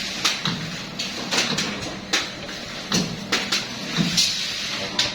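A dry choux pastry (sus kering) machine running: a steady motor hum with sharp mechanical clacks about twice a second, not evenly spaced.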